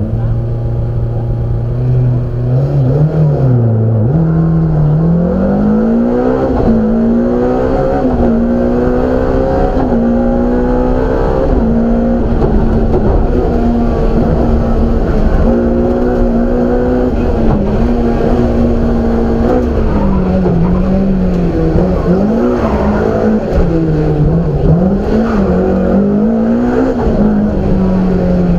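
BMW M3 rally car engine heard from inside the cabin, held at a steady low note for the first two seconds, then pulling hard through the gears. The pitch climbs and drops back with each shift, with a series of quick dips and rises in the second half.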